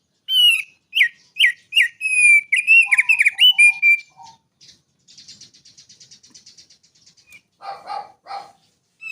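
A songbird singing a quick series of loud, clear whistled notes, each sliding downward. After about four seconds it switches to a faint, rapid, buzzy high trill, and near the end it gives three coarser, lower notes.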